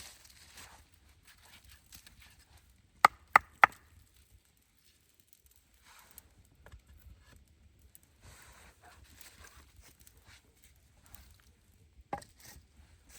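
Three quick, sharp knocks about a third of a second apart, then another single knock near the end, with faint rustling in between.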